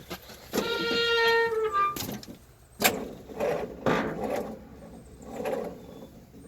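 Starter motor slowly cranking the cold-soaked 2.25-litre petrol four-cylinder of a 1961 Land Rover Series II in pulses about every half second, without the engine catching. Before the cranking, a short steady squeal that rises in pitch at its end.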